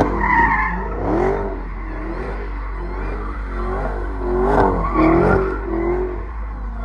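Car engines revving in repeated blips, the pitch rising and falling several times over a steady low rumble.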